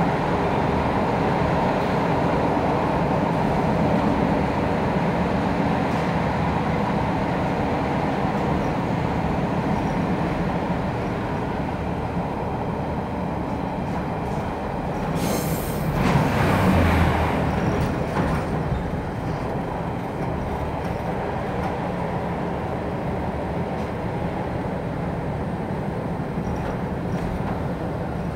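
Inside a Class 142 Pacer two-axle diesel railbus under way: steady drone of the underfloor diesel engine with wheel-on-rail rumble. About halfway through comes a brief louder rush and a low thump, after which the running noise is a little quieter.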